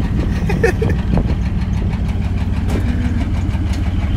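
Chevy S10 pickup's engine idling steadily, with a faint voice briefly about half a second in.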